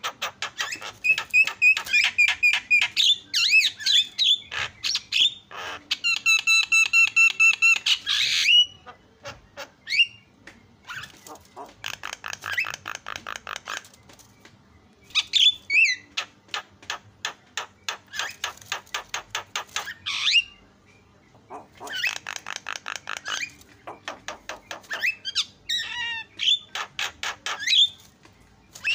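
Javan myna singing: runs of rapid, dry clicking chatter at about ten clicks a second, broken by short pauses and sharp whistled squawks, with one steady, held whistle lasting about two seconds a quarter of the way in.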